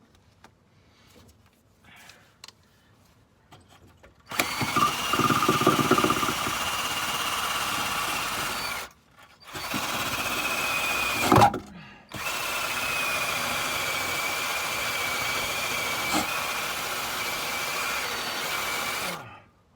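Power drill running in three bursts with two short stops, starting about four seconds in, working surface rust off a car's underside. Each run is a steady whine over a hiss.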